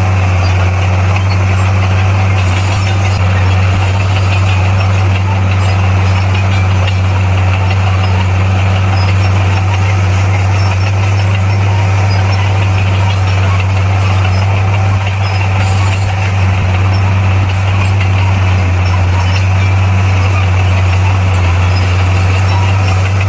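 Bulldozer's diesel engine running steadily with an even low drone.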